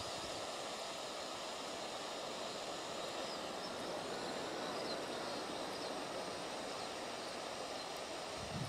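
Steady distant aircraft engine noise: an even rush with a faint high whine.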